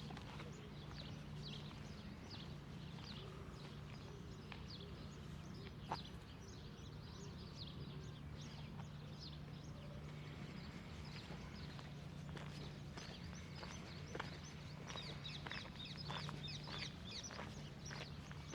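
Small birds chirping in short, repeated calls, busier near the end, with footsteps on a path and a steady low hum underneath.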